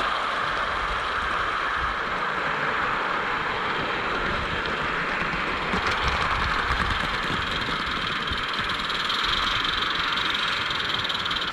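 Small garden-railway train running along the track: a steady rushing rumble of the wagons' wheels on the rails.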